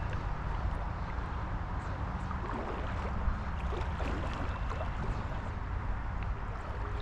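River water running around a kayak: a steady rushing, with a few faint ticks.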